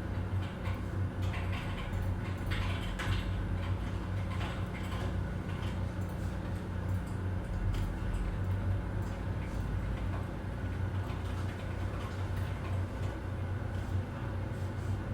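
Office ambience: a steady low hum under scattered light clicks and knocks, which are thickest in the first few seconds.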